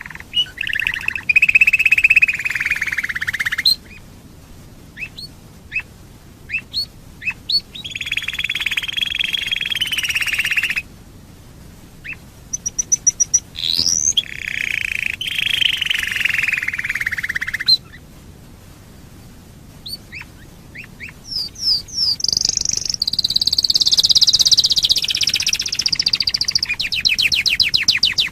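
Domestic canary singing in several bouts of rolling trills, a few seconds each. Single sharp chirps fall in the short gaps between the bouts, and the last bout is a higher, faster trill.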